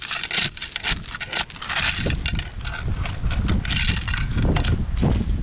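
Wind buffeting the microphone in a constant low rumble, with several sudden bursts of scraping and rustling, the loudest about two seconds in and again about four seconds in.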